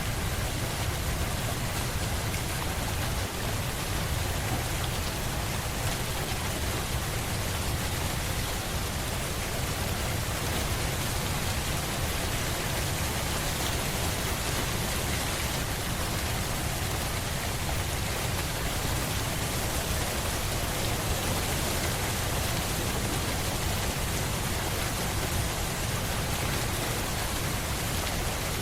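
Steady, heavy rain falling: a dense, even hiss with a low rumble underneath, unchanging throughout.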